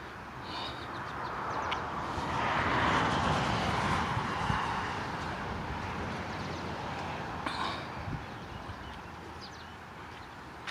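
A car going by on the parkway: a swell of tyre and engine noise that builds, peaks about three seconds in and slowly fades away. A few faint bird chirps come through.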